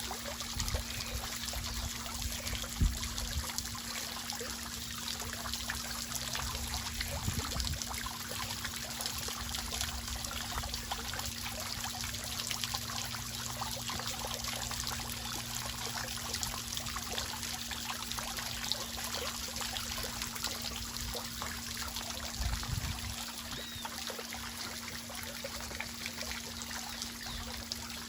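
Water trickling and running steadily, with a faint steady hum underneath and a few low thumps.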